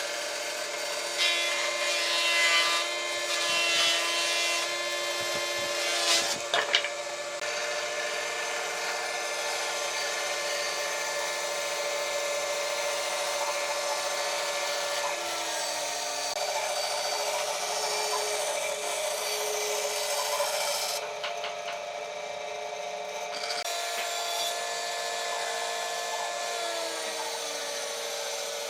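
An electric power tool running against wood: a steady motor whine under a rasping, rubbing noise as it cuts or sands. The scraping is loudest in the first few seconds, with a sharp clatter about six seconds in, and the motor's pitch sags briefly about halfway through and again near the end.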